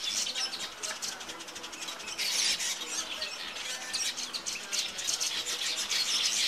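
A dense chorus of many small birds chirping and chattering continuously, overlapping calls with no pause.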